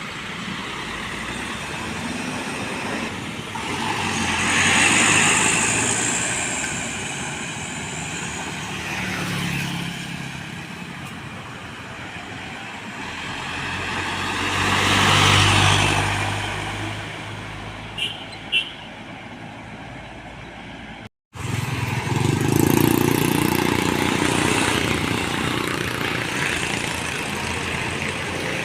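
Heavy trucks and other vehicles passing on a road one after another: engine and tyre noise swells as each one goes by and fades. Two short sharp sounds come close together past the middle.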